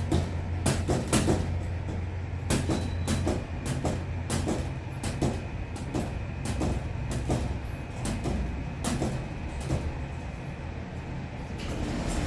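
Loosely fixed elevator panel rattling and knocking irregularly, one or two knocks a second, over the steady low hum of the running lift car. The knocks come from a panel that is not properly secured.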